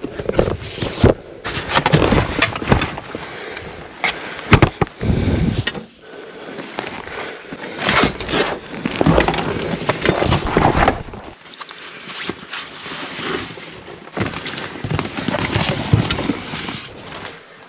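Irregular crunching and rustling with several sharp knocks, from someone moving about and handling things close to the microphone.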